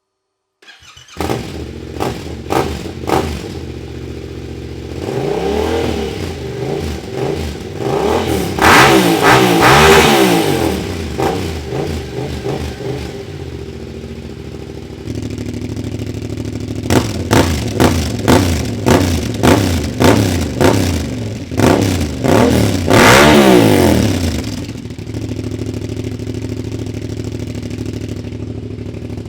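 Yamaha Ténéré 700's parallel-twin engine starting up about a second in and idling, then revved: a few short blips, a longer rev rising and falling, and later a quick run of sharp throttle blips before settling back to a steady idle. The exhaust is a Dominator MX2 fitted with an aftermarket dB killer, its end cap set to the last notch.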